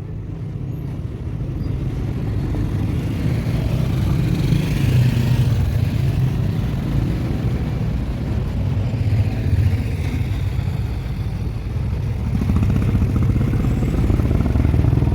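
Street traffic: a steady low rumble of vehicle engines, including motorcycles, that swells a few seconds in and again near the end.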